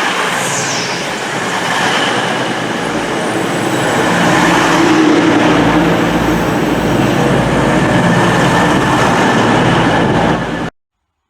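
Train running, a loud steady rush of rail noise that grows louder about four seconds in, then cuts off abruptly.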